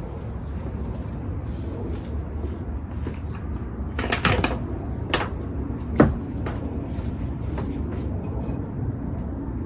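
Steady low rumble of city traffic, with a quick cluster of knocks and clatters about four seconds in, another about a second later, and one sharp knock about six seconds in.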